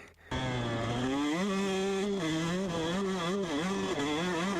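Dirt bike engine revving as the rider rides the track, heard through a helmet camera with wind rush. It comes in just after the start, climbs in pitch about a second in, then rises and falls with the throttle.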